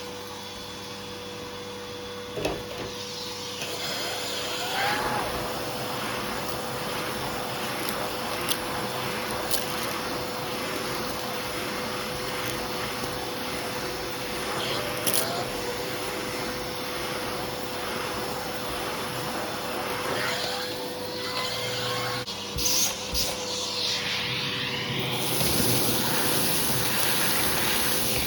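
Hoover vacuum cleaner running steadily, its suction drawn through a hose tool over a rug, with a steady motor whine and rubbing and scraping as the tool moves. About three quarters of the way through the whine drops out and the suction turns hissier.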